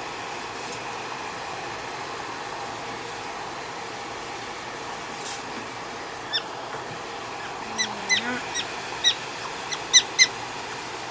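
A hair dryer blowing steadily, and a prairie dog giving short, high chirping calls: a few from about six seconds in, coming quicker near the end.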